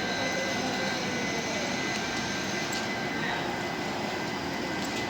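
Train running by with a steady rumbling noise and a thin, steady high whine.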